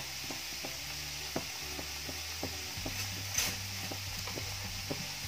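Chopped vegetables and ginger-garlic paste sizzling in hot oil in a nonstick pan: a steady hiss with scattered light ticks, and one sharper click about three and a half seconds in.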